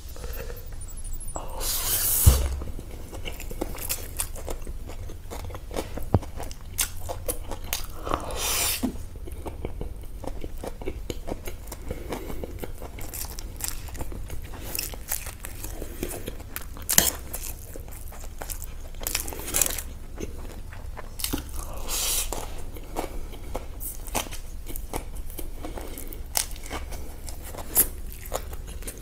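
Close-up eating sounds: a person chewing and biting fried food, with irregular crunches and sharp clicks throughout.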